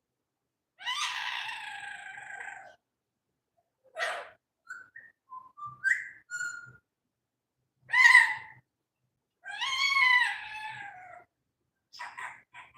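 A pet parrot calling: a long drawn-out call about a second in, a few short rising whistles and chirps in the middle, then a loud short call and another long call near the end, with pauses between.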